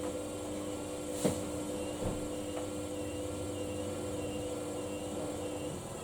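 Samsung washing machine's motor running the drum during a Daily Wash 30 cycle: a steady hum with a higher whine that wavers up and down, and one click about a second in. The low part of the hum cuts out shortly before the end.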